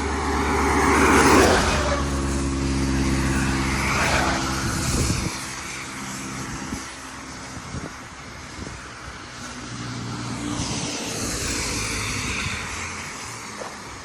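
Motor vehicles passing, with a steady low engine hum that cuts off about five seconds in and whooshing swells as vehicles go by.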